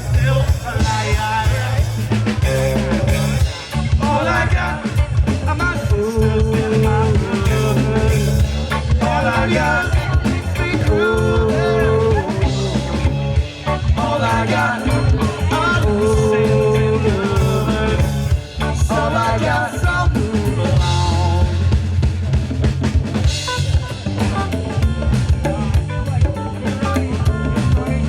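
Live band playing: drum kit with snare and bass drum driving a steady beat under electric bass and guitar.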